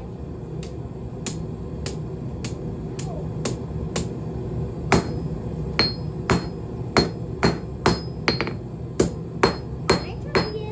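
Hand hammer striking hot 3/8-inch round steel stock on an anvil, about two blows a second, light at first and sharper and louder from about halfway, each with a short metallic ring.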